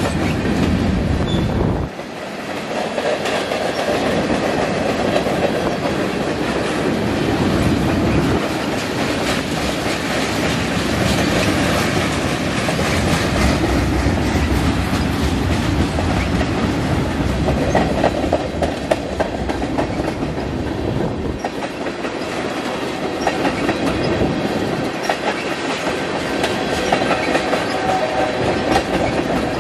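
A long freight train's cars rolling steadily past on the rails.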